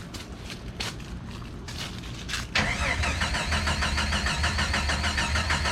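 Jeep Wrangler YJ's 4.0-litre inline-six started with the exhaust open at the header, no pipe or muffler fitted. After a few clicks, the engine fires about two and a half seconds in and runs loud and steady with a rapid, even pulse.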